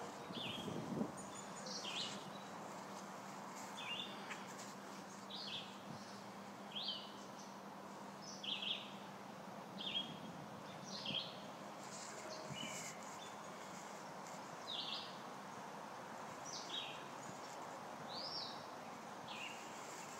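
A bird calling over and over, short high chirps about once a second, over a steady outdoor background hiss.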